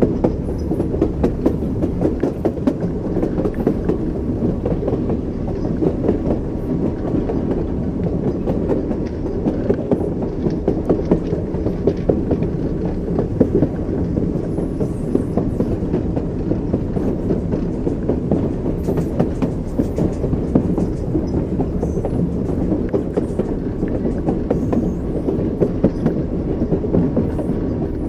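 Train wheels knocking over the rail joints, a quick run of short knocks over a steady low rumble of the moving train.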